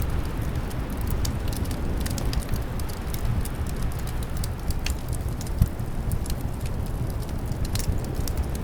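Wood fire crackling with frequent small sharp pops over a steady low rumble of wind, with one louder pop about five and a half seconds in.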